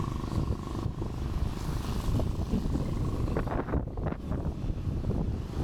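Wind buffeting the microphone on a moving Honda Activa scooter, over the steady running of its small single-cylinder engine and road noise.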